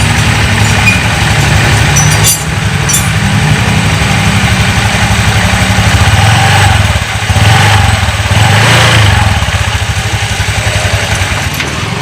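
Automatic scooter engine running, its revs rising and falling as the throttle is worked, with no knocking from the CVT housing: the loose CVT bowl that made the 'trok tok' sound has been fixed.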